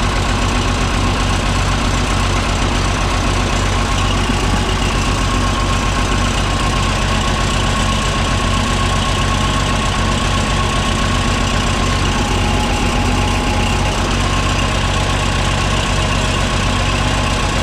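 Cockshutt 1850 tractor's Perkins diesel engine running steadily at idle, freshly started after standing unused for two years.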